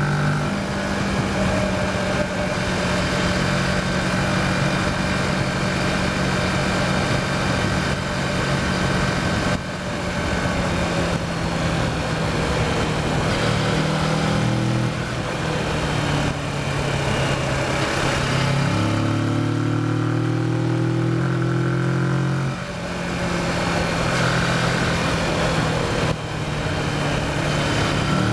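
Kawasaki Versys motorcycle engine running while riding at a steady road speed, with wind noise over it. In the last third the engine note changes pitch in steps a few times, as when the rider shifts gears or rolls the throttle on and off.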